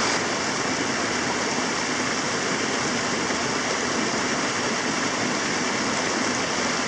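Small waterfall on a mountain stream, water rushing over the cascade in a steady, even roar.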